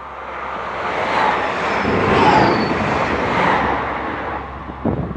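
A Stadler Class 755 bi-mode multiple unit passing through the station at speed without stopping: the rumble and rail noise swell to a peak about two seconds in, with a brief high whine that drops in pitch as it goes by, then fade as it recedes. Wind gusts buffet the microphone near the end.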